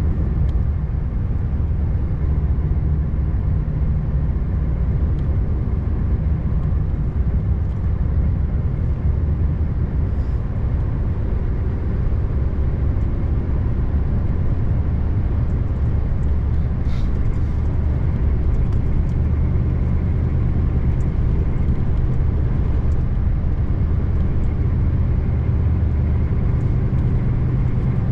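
Scania R590 V8 truck engine running steadily while driving, with tyre and road noise over it; a low drone whose pitch shifts slightly now and then.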